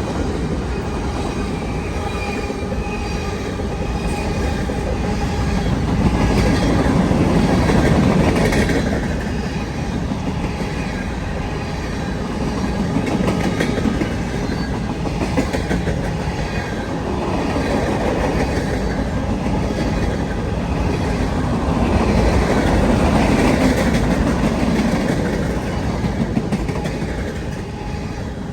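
A train rolling past, its wheels clacking over rail joints. The noise swells and eases every few seconds as the cars go by.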